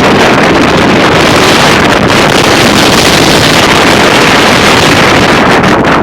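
Strong windstorm gusts of 40 to 60 mph hitting the microphone: a loud, unbroken roaring rush of wind noise.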